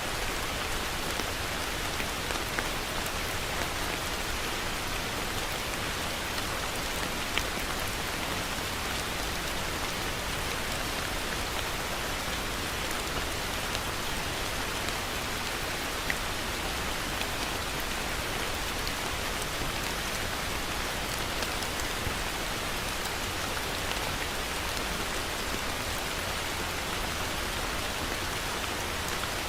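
Heavy rain falling steadily, a constant hiss with scattered individual drops ticking on a surface.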